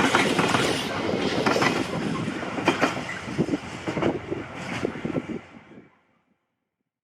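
A train running past on the line, a steady rumbling noise with the wheels clicking over the rail joints, fading out near the end.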